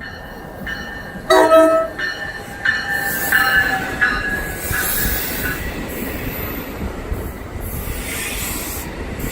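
NJ Transit commuter train sounding a short horn blast about a second in, then running through with a steady rumble and high metallic tones from the wheels.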